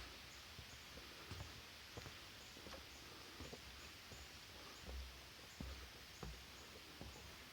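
Faint footsteps on a forest trail, a soft thump every half second or so, over a steady hiss.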